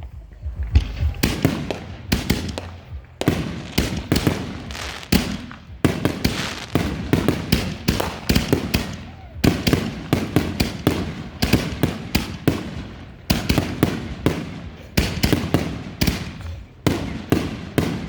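Consumer fireworks going off in a rapid barrage: many sharp bangs and reports, several a second, broken by a few brief lulls.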